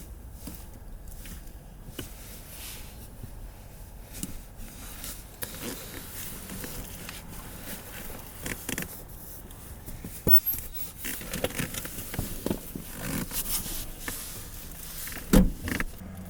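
Rustling, scraping and light clicking of things being handled and moved inside a car, with one louder thump near the end.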